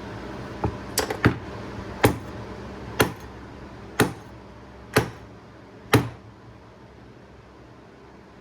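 Seven sharp knocks, about one a second, as the gear on an outboard's prop shaft is tapped down onto the shaft's flange against a tight new prop shaft seal. The knocks stop about six seconds in.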